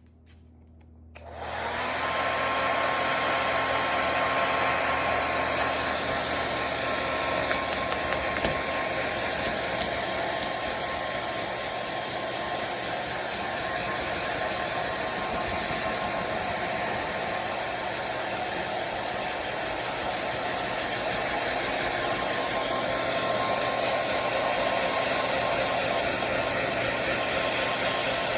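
Hand-held hair dryer switched on about a second in and running steadily: a rush of blown air with a constant whine.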